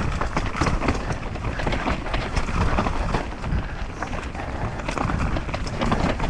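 Mountain bike rattling down a rough downhill trail: a rapid, irregular clatter of tyres over roots and rocks and chain and frame knocking, over a constant low rumble.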